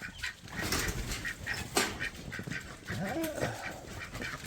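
A domestic goose honking a few times, with short clicking and crunching noises between the calls.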